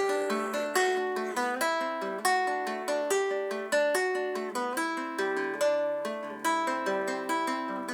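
Instrumental break in an acoustic song: a plucked string instrument picking a steady run of single notes and chords, several per second, without singing.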